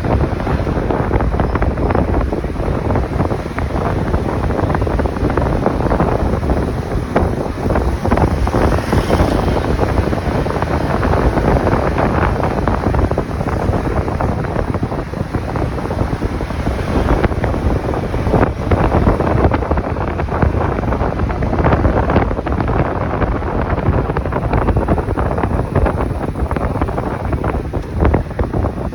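Steady rush of wind buffeting the microphone on a moving motorcycle, mixed with road noise.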